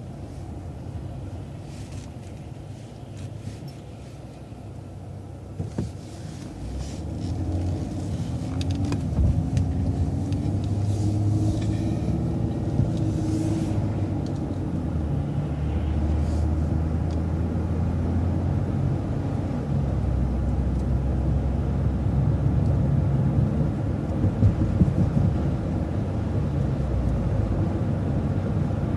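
Transit bus engine and road rumble. The bus is quieter for the first several seconds, then the engine picks up about six seconds in as it pulls away, its note climbing, and it settles into a steady drive rumble.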